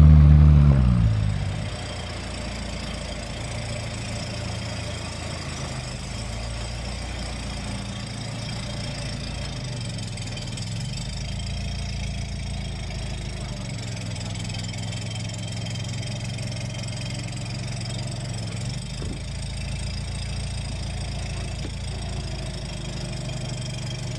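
A car engine dropping back from a rev over the first second or two, then idling steadily with a low hum.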